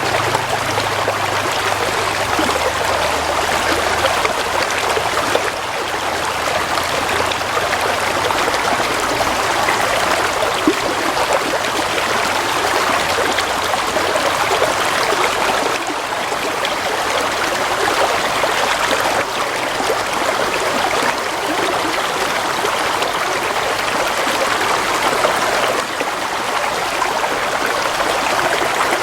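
Water flowing steadily in a stream, a continuous even rush. A faint low hum underneath dies away in the first few seconds.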